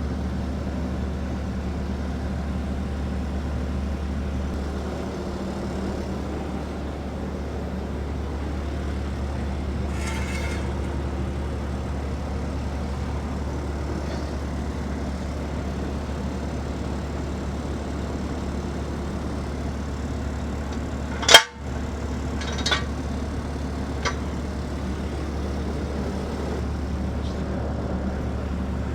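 Bobcat engine idling steadily. A single loud metal clank comes about two-thirds of the way through, followed by two lighter knocks as the heavy axle is worked into place.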